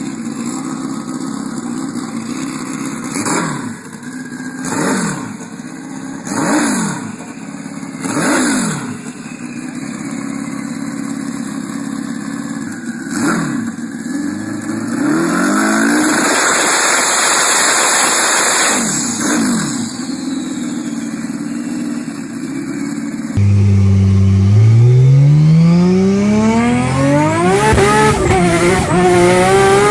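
Turbocharged performance car engine revved in a series of short blips, then held at high revs for a few seconds. About two-thirds of the way in, a cut brings in another engine accelerating hard, its pitch climbing steadily.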